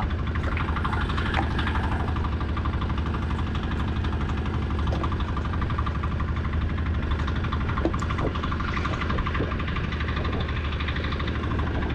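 Fishing boat's engine running steadily at a constant speed, with a few faint knocks over it.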